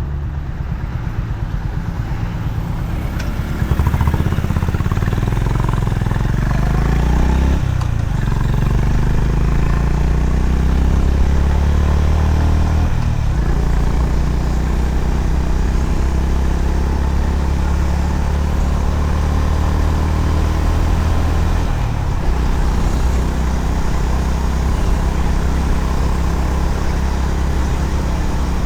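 Honda CB350RS single-cylinder motorcycle engine running under way, the revs climbing over the first few seconds and then holding with a few brief dips, over a constant low rush of road and wind noise.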